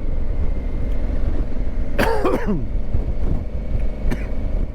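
Adventure motorcycle riding at road speed, heard through a helmet microphone: a steady low rumble of engine and wind, with a short vocal sound from the rider, like a cough or throat clearing, about two seconds in.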